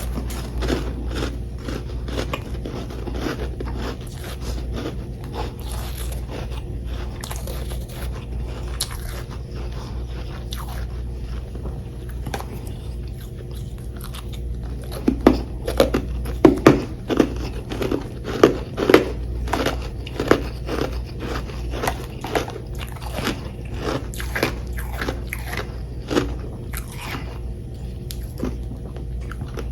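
Close-up crunching and chewing of compacted frost chunks, a steady run of crisp crackles, with the loudest, densest crunches about halfway through.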